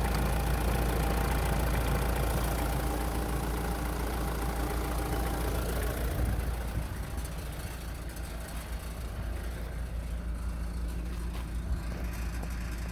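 Chrysler Grand Voyager's 2.5 CRD four-cylinder common-rail turbodiesel running at idle. About six seconds in it becomes quieter and duller, with the low rumble carrying on.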